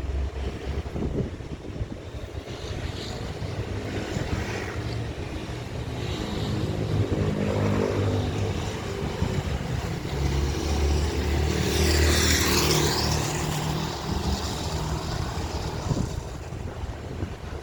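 Airbus A321 jet airliner on final approach flying low overhead: the engine rumble builds, peaks about twelve seconds in with a sweeping high whine as the aircraft passes, then fades. Wind buffets the microphone throughout.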